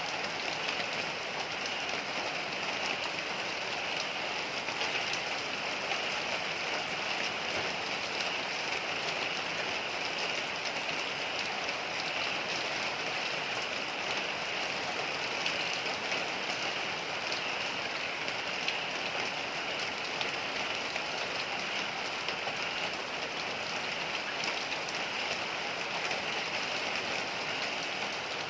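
Heavy rain falling steadily, a dense, even patter of drops that does not let up.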